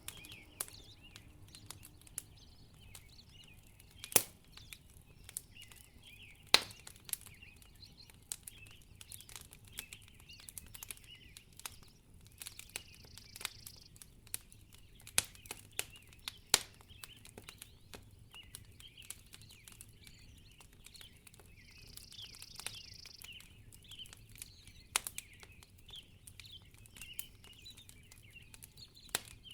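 Wood fire in a fireplace crackling steadily with constant small clicks, broken by a few sharp, louder pops.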